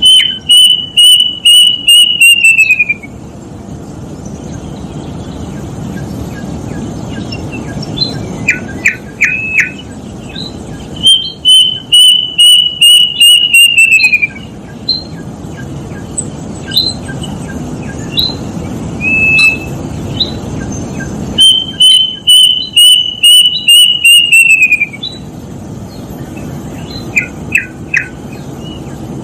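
Kedasih cuckoo singing: three runs of rapid, evenly repeated whistled notes, each about three seconds long, holding one pitch and then dropping at the end. Shorter chirps come between the runs, over a steady low hum.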